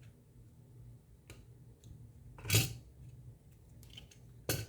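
Cutters snipping through the mangled metal battery-contact pin of an Xbox controller: a few short sharp clicks, the loudest about halfway through and another near the end.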